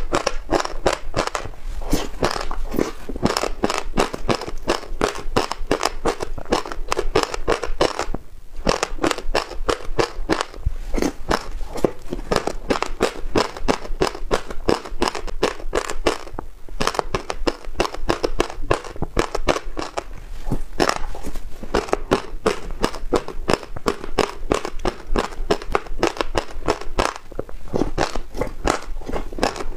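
Close-miked chewing of passionfruit seeds in yogurt: a dense, continuous run of small crackling crunches, with brief pauses about eight and sixteen seconds in.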